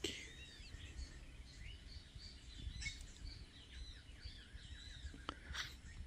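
Faint, many overlapping short chirps and whistled calls of birds over a low steady background noise, with one sharp tick about five seconds in.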